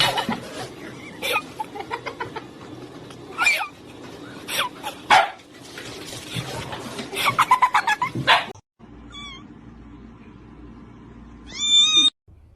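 A cat crying and yowling in a run of sharp, pitched calls, with a quick string of cries just before a sudden cut. After the cut, a few faint calls and then one clear rising meow near the end.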